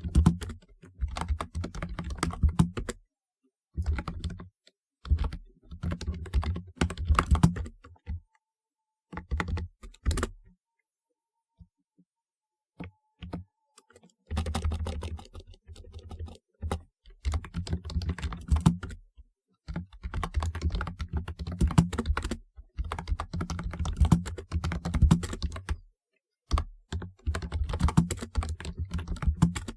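Typing on a typewriter-style keyboard: quick runs of clicking keystrokes in bursts, broken by short pauses and one pause of a few seconds near the middle.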